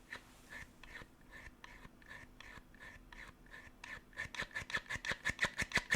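Sonicake volume pedal's treadle being rocked back and forth, giving a run of short squeaky scraping clicks that grow louder and quicker after about four seconds. The rocking action is stiff and not smooth.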